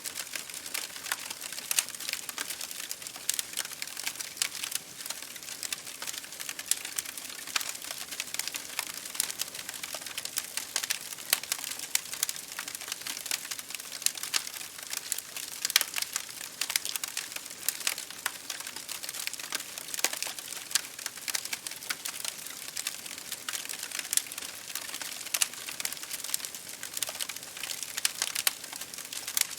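Wood fire crackling in a fireplace, with dense, irregular pops and snaps over a steady hiss of rain on a window.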